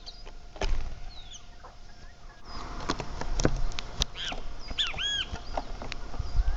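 Backyard birds chirping and calling, with domestic fowl among them: many short rising and falling notes. There are scattered sharp clicks and a couple of low thumps.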